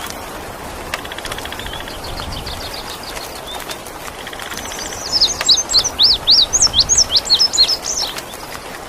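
Indigo bunting singing: a fast, dry trill about a second in, then from about five seconds a loud run of sharp, sweeping whistled notes. Underneath is a steady hiss of rain.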